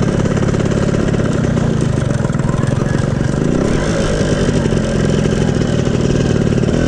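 Motorcycle engine running steadily under way, its pitch shifting briefly about halfway through.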